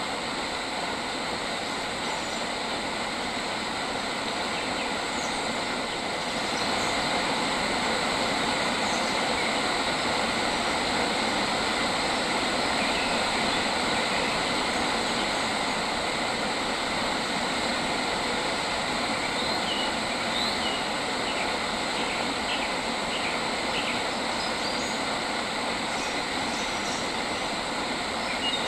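Steady outdoor nature ambience: a continuous wash of noise with a few faint, short bird chirps about two-thirds of the way through.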